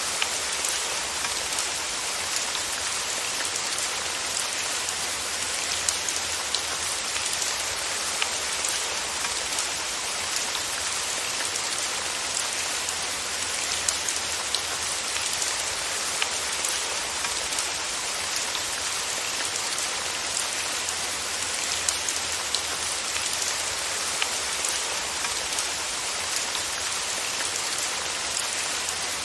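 Steady rain falling on a surface, a dense even hiss with many small individual drop ticks.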